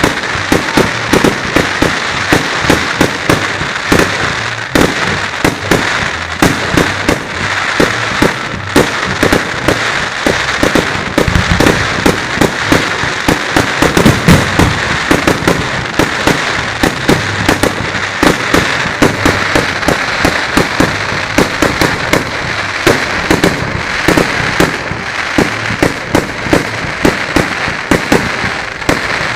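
Fireworks going off in a dense, continuous barrage of sharp bangs and crackles over a steady hiss.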